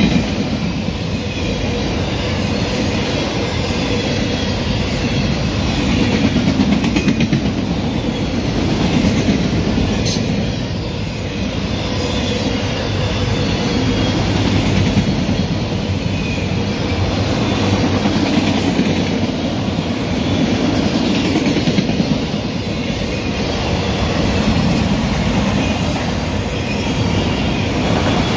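Norfolk Southern freight train of autorack cars rolling past at speed: a steady rumble of steel wheels on rail with clickety-clack over the rail joints, swelling and easing every few seconds as the cars go by.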